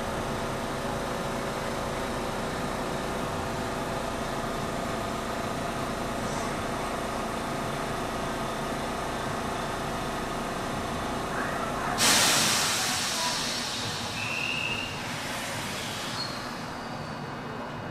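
JR Shikoku 8000-series electric train standing at the platform with a steady hum from its on-board equipment. About two-thirds of the way through comes a sudden loud hiss of compressed air from the train's pneumatic system, fading away over a few seconds.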